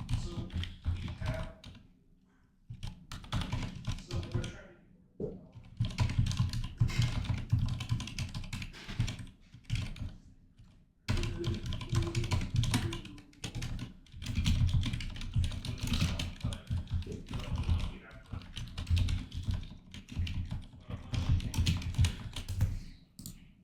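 Typing on a computer keyboard: quick runs of key presses in bursts, with brief pauses about two seconds in and again around ten seconds in.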